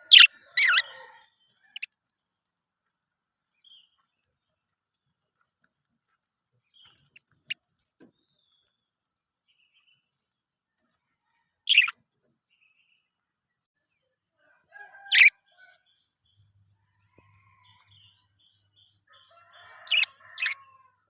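Budgerigars giving short, shrill calls every few seconds: a quick pair at the start, single calls spread through the middle, and another pair near the end over soft chattering.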